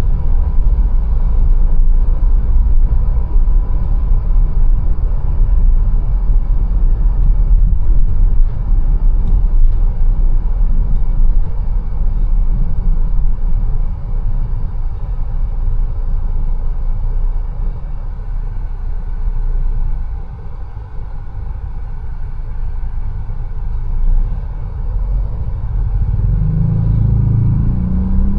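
Mercedes-Benz A180 on the move, a steady low rumble of engine and road noise. It eases off about two-thirds through, then the engine note rises near the end as the car picks up speed.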